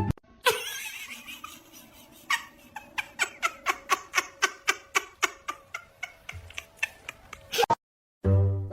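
A rapid, even run of sharp clicks or taps, about four a second, lasting about five seconds and stopping suddenly.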